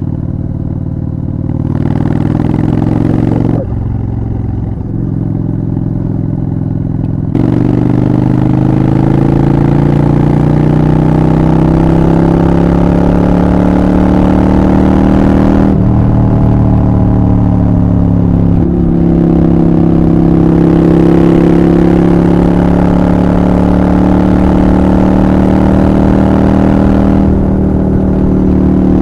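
Honda Shadow 750 Black Widow's V-twin engine under way, pulling through the gears: a short burst of throttle that drops off after about three and a half seconds, then a louder pull from about seven seconds with the pitch climbing steadily. The pitch drops at gear changes around sixteen and nineteen seconds, then the engine holds a fairly steady note.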